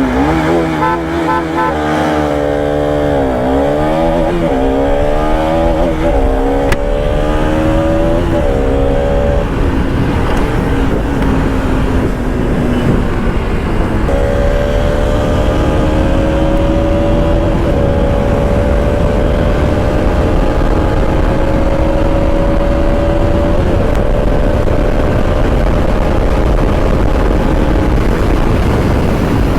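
Bajaj Pulsar RS 200's single-cylinder engine under way on a ride. It revs up and drops back several times through gear changes over the first ten seconds or so, then pulls steadily in a higher gear, its pitch slowly rising.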